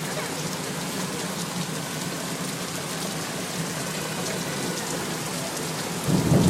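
Thunderstorm rain falling steadily. About six seconds in, a clap of thunder breaks in and starts rumbling, following the lightning.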